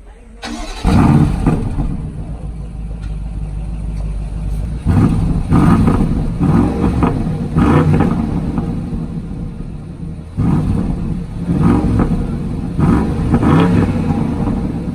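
BMW car engine and exhaust revving: the sound jumps up suddenly about a second in, then comes a string of short throttle blips, each a quick rise and fall in pitch.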